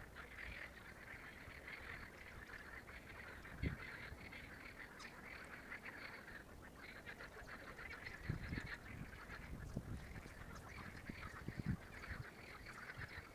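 A continuous chorus of rapid animal calls, the kind heard from frogs or waterfowl on water, with a few low thumps about four seconds in and again near the end.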